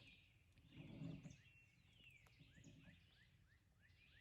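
Near silence with faint birdsong: a small bird repeats a short, quick high chirp about twice a second. There is a faint low murmur about a second in.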